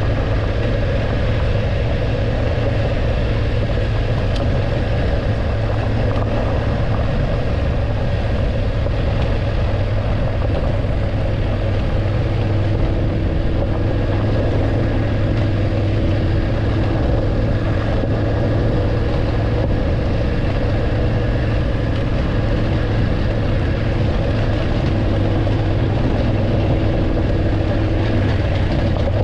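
BMW F850GS motorcycle's parallel-twin engine running at a steady, even pitch.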